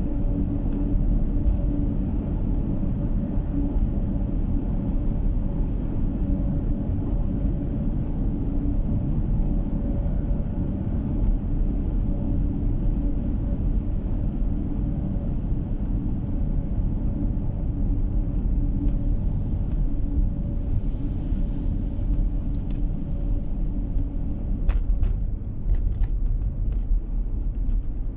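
A car driving on the road, heard from inside the cabin: a steady low rumble of tyres and engine with a constant hum. A few faint clicks come near the end.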